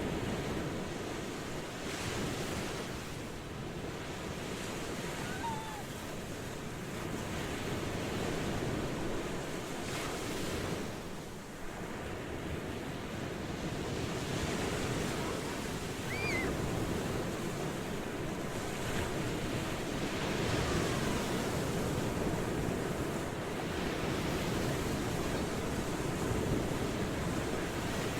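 Ocean waves washing onto a shore, a continuous rushing surf that swells and eases every few seconds, with a brief lull a little under halfway through.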